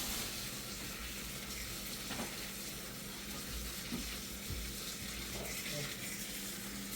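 Food frying in a pan: a steady sizzling hiss, with a faint steady low hum underneath.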